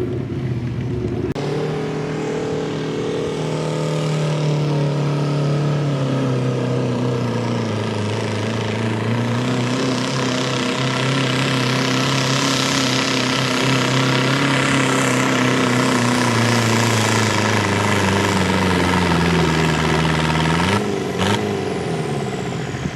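Small competition pulling tractor's engine running hard through a pull, its note sinking slowly under the sled's load, then cutting off suddenly about 21 seconds in.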